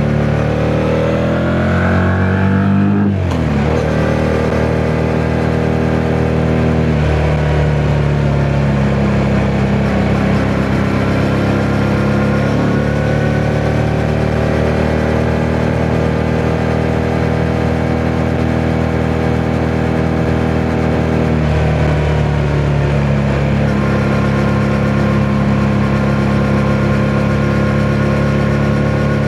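Yamaha MT-07's parallel-twin engine revving up under acceleration, then dropping sharply at a gear change about three seconds in. It then runs at fairly steady revs with small throttle changes, over wind noise on the microphone.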